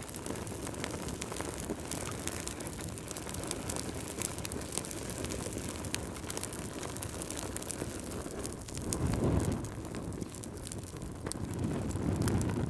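Fireplace fire crackling: scattered sharp crackles over a low, steady rumble that swells louder about nine seconds in and again near the end.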